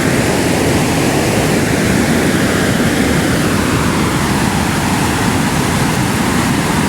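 Waterfall rushing steadily and loudly, its fast, heavy flow of water making a continuous noise.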